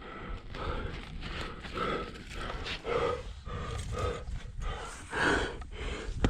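A climber breathing hard with short grunts of effort, repeating every second or so: the strain of working up a tight chimney.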